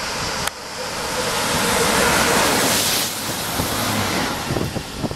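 TER regional electric train passing at speed close by: a rush of wheel and air noise that builds, peaks about two to three seconds in, then fades. A sharp click about half a second in, and a few knocks near the end.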